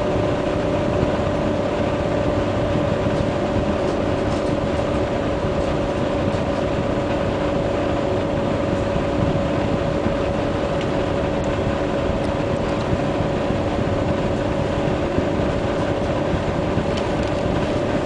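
Steady hum of a stationary passenger train's running equipment, heard from inside the carriage: an even rumble with two steady held tones and no change throughout.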